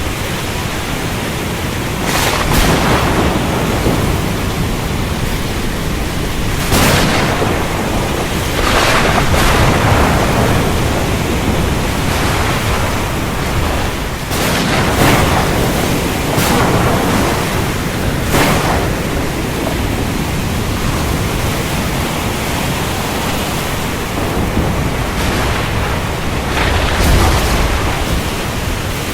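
Heavy rain hissing steadily, broken every few seconds by short, sharp cracks of thunder, about eight in all.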